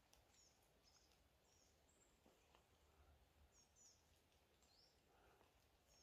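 Near silence with faint birdsong: a few brief, high chirps scattered through it, and a couple of faint ticks.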